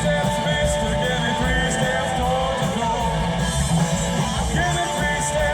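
Live rock band playing loudly through a PA: electric guitars, drums with cymbal hits, and some singing.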